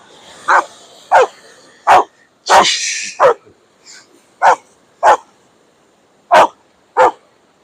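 A dog barking: nine short, sharp barks, mostly in pairs about half a second apart. A brief rush of noise comes about two and a half seconds in.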